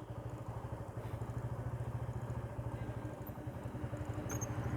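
Motorcycle engine running steadily at low revs with a fast, even pulse.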